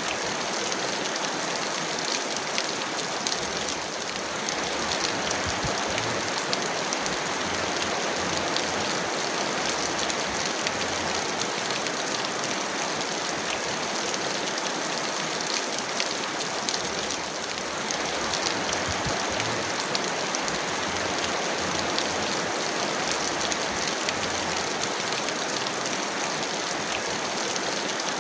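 Heavy rain falling steadily: a dense, even hiss with a fine spatter of individual drops.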